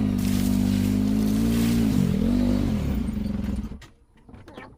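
A vehicle engine running steadily with slight rises and dips in pitch, then stopping abruptly a little over three and a half seconds in, followed by a few faint clicks.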